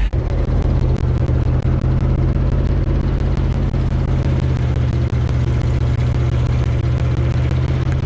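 1973 Ford F-250's 360 V8 engine running under way, a steady deep drone, with a fast, even ticking over it.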